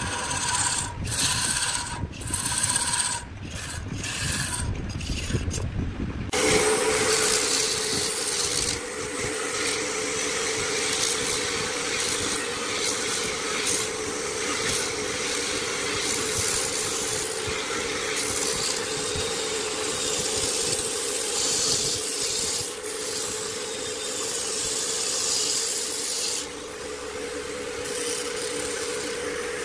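Woodworking lathe at work with a tool scraping against the spinning wood. For about the first six seconds a squeal pulses roughly twice a second, then it gives way to a steady hum under continuous scraping.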